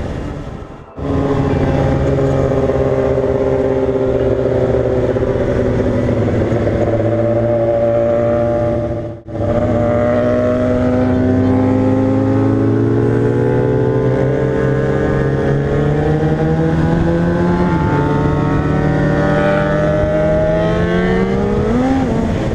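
Motorcycle engine running under way, its pitch slowly climbing through the second half, with a brief step near the end and a short rev up at the very end. The sound cuts out briefly twice, about a second in and near the middle.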